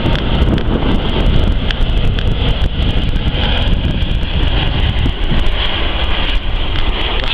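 Jet noise from a landing Boeing 777's two turbofan engines: a steady, loud rumble with a hiss on top, mixed with wind buffeting the microphone.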